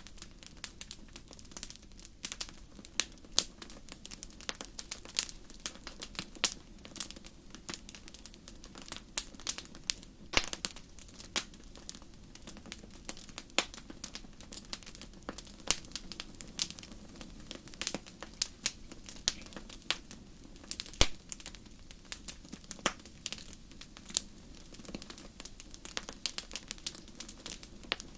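Campfire crackling: burning wood giving irregular sharp snaps and pops, several a second, some louder than others, over a faint steady low hum.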